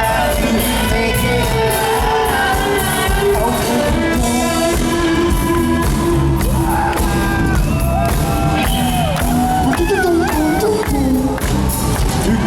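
Rock band playing live in an arena, a lead vocal singing over the band with a steady beat and heavy bass.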